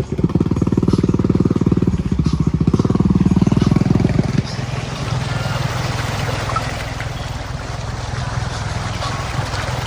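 Off-road mud bike's engine revving hard for about four seconds, then dropping to a lower steady run with a steady hiss.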